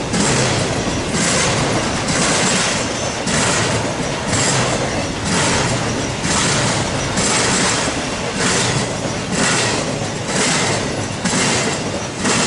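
Freight train cars rolling past at speed, their wheels clattering over the rails with a loud, even surge about once a second.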